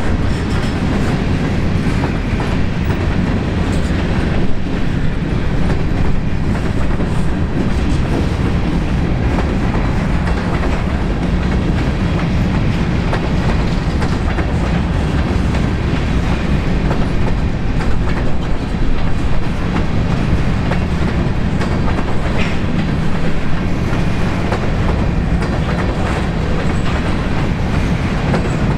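Freight train of covered hopper cars rolling past close by: a steady rumble with wheels clicking over the rails.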